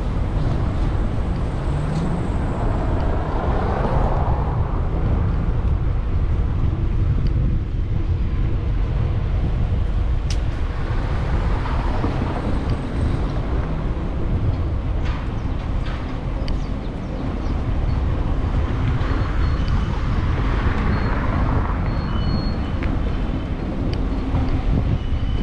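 Steady low rumble of wind and road noise on a camera microphone riding along on a bicycle, with street traffic in the background and a few light clicks and rattles.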